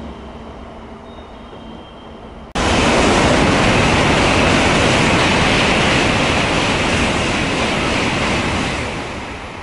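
A Shinkansen bullet train passing through the station at high speed without stopping: a loud, steady rushing noise that starts abruptly about two and a half seconds in and fades over the last second.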